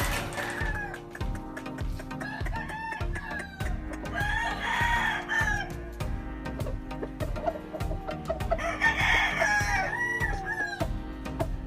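Gamefowl roosters crowing, with two loud crows about four and nine seconds in, over background music with a steady beat.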